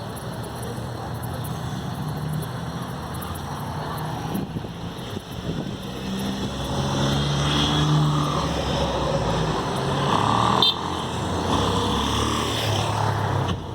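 A motor vehicle's engine running over a steady wash of noise, growing louder about halfway through.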